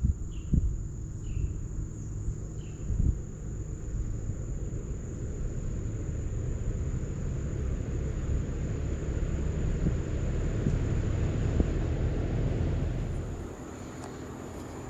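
Outdoor unit of a 2018 Daikin inverter heat pump starting up in cooling mode. Its fan and compressor hum builds gradually over about ten seconds, then drops in level near the end. Crickets chirp a few times early on.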